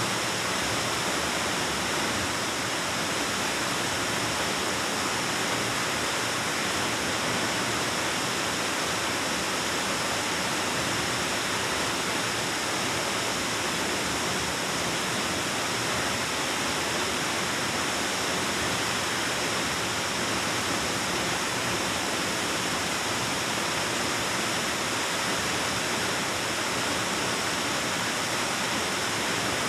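Waterfall pouring into a rock cave, a steady, unbroken rush of falling water echoing off the cave walls.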